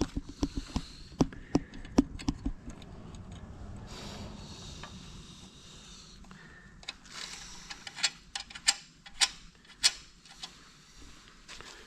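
Irregular sharp clicks and knocks, a dense cluster in the first couple of seconds and a few louder ones about eight to ten seconds in, with a faint hiss between.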